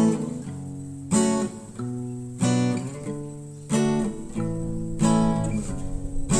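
Background music: an acoustic guitar strumming chords, with a fresh strum about every second and a quarter, each one ringing and fading before the next.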